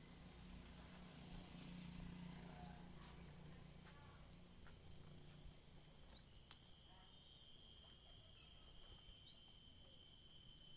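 Faint rural ambience of insects droning on steady high pitches, with a second, higher drone joining about six seconds in. A few short rising chirps are heard, and a low hum fades out about halfway through.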